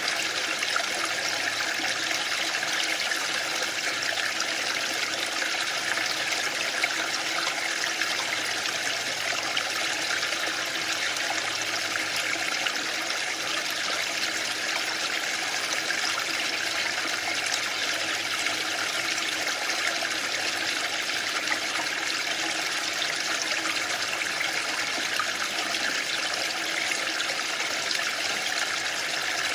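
Waterfall: a steady rush of falling water with no swells or pauses.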